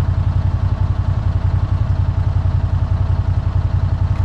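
A farm vehicle's engine running steadily at low speed, with an even throbbing pulse.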